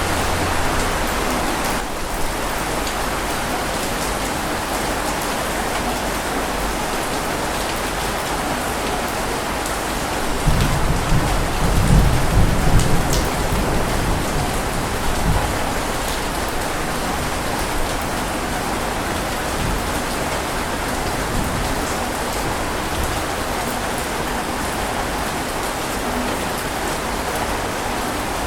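Steady rain falling, with a low rumble of thunder that rolls for about five seconds in the middle.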